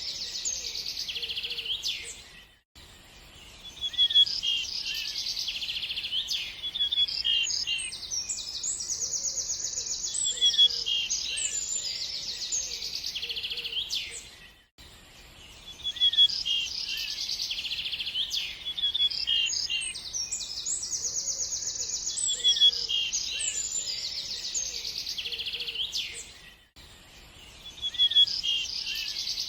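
Small songbirds chirping and trilling quickly in a busy chorus, with a few fainter, lower calls beneath. The chorus drops away briefly three times, about every twelve seconds, as the same stretch of song repeats.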